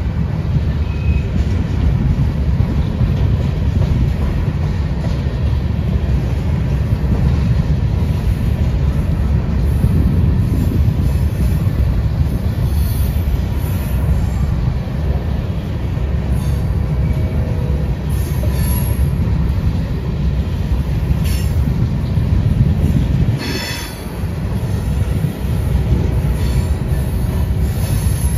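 Freight train rolling past at close range: a steady, heavy rumble of wheels on rail, with a brief sharp clank late on.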